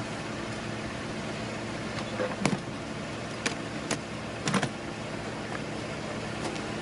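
A steady background hum with a handful of short sharp knocks and clicks about two to five seconds in.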